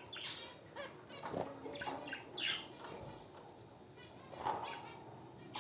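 Small cage birds, budgerigars and zebra finches, chirping and chattering in a string of short, irregular calls, with a few louder calls scattered through.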